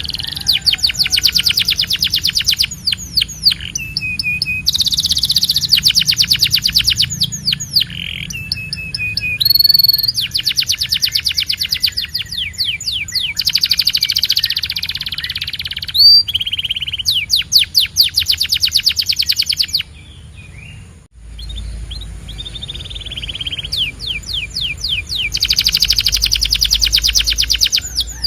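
Canary song: fast trilled rolls and short whistled notes, phrase after phrase, with a brief lull about twenty seconds in.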